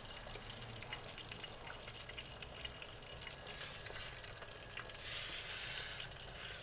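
Marinated, flour-coated chicken frying in oil in a pan, a steady sizzle with small crackling pops. About five seconds in, a louder hiss rises for about a second, and a shorter one follows.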